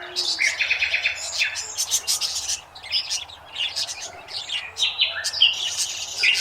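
Several birds chirping and calling at once, with quick repeated notes and short trills overlapping throughout.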